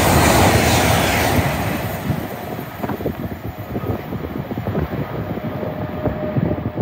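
A Great Western Railway Intercity Express Train passing at speed: loud rushing wheel-on-rail and air noise that drops away about a second and a half in, leaving a fainter crackling rattle. A faint steady tone comes in near the end.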